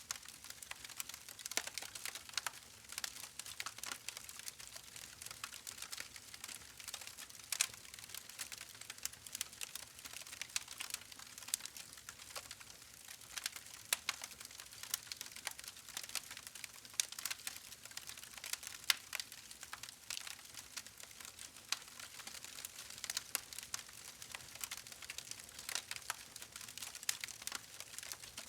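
Wood fire crackling, with a steady hiss and many irregular sharp pops and snaps.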